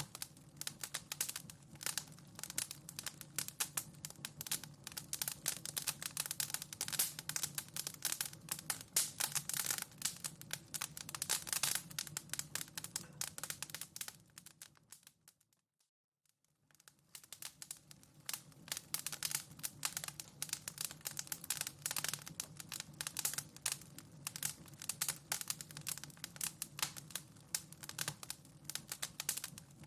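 Wood fire crackling in a fireplace, a dense run of small snaps and pops. The crackle fades out to near silence about halfway through and fades back in a couple of seconds later.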